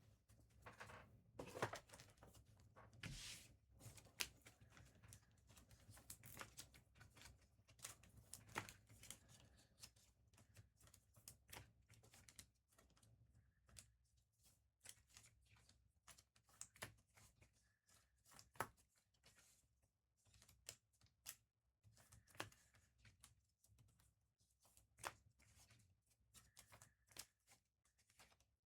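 Near silence broken by faint, irregular rustles and light clicks of trading cards being handled.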